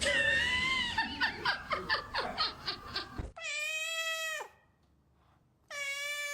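Cat vocalizing: a wavering cry that breaks into a quick run of short notes, about four a second, then, after a sudden cut, two long meows of about a second each.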